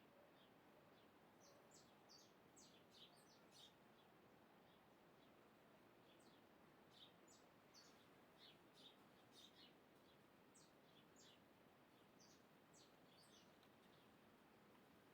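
Faint birds chirping: short, high notes in loose clusters over a steady background hiss.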